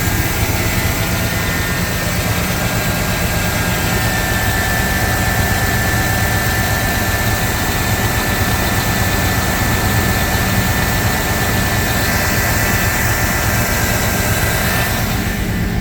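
A 1995 GMC Sierra 1500 pickup engine idling steadily on a cold start, heard from inside the cab. A steady high whine and hiss ride over the idle and drop away near the end.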